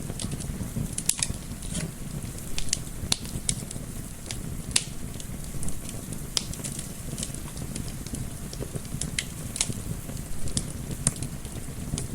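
Wood fire in a fireplace crackling, with irregular sharp pops of varied loudness over a steady low rumble, and a gentle wind mixed in.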